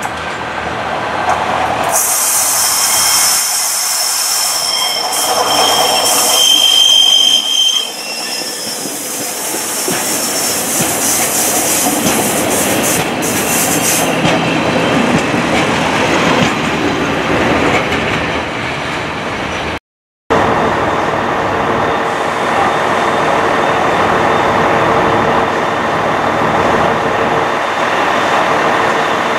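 Two-car diesel multiple unit passing close on curved track, its wheels squealing with a loud high hiss and a shrill squeal tone near the middle of the pass. After a cut, the steady running noise of another train drawing into the platform.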